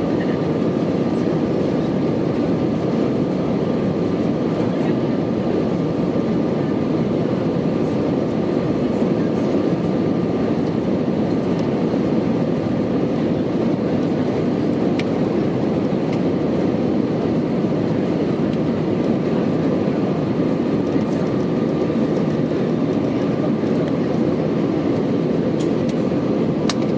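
Airbus A319-111's CFM56 engines and rushing air heard inside the passenger cabin at high power during takeoff: a steady, loud, deep roar with a faint thin whine above it.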